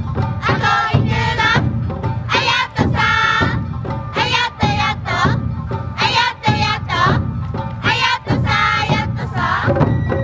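Awa Odori festival music: a group of performers' voices shouting short rhythmic chant phrases over and over, over a steady beat of drums.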